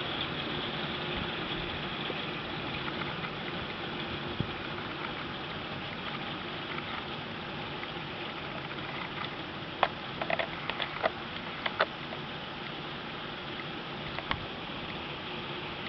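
Heavy rain pouring steadily, with a cluster of sharp taps, like drips striking something close by, about ten seconds in.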